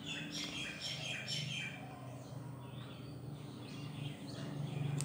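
Birds chirping in the background: a quick run of short chirps in the first couple of seconds, then a few fainter ones, over a low steady hum.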